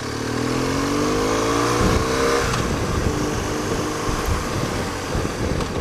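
BMW R1200GS flat-twin engine accelerating under way, its note rising for about two and a half seconds, then dropping and running on steadily, with wind rush.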